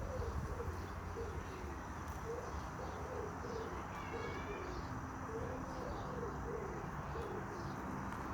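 A bird cooing, a steady run of short low coos, with a brief higher chirp from a small bird about four seconds in.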